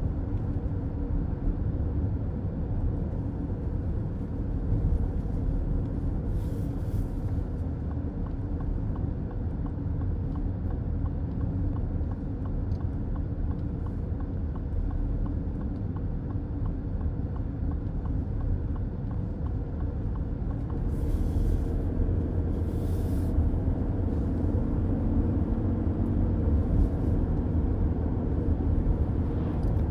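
Car driving on the road, heard from inside the cabin: a steady low rumble of tyres and engine, with a few brief hisses about 7 seconds in and again around 21 to 23 seconds.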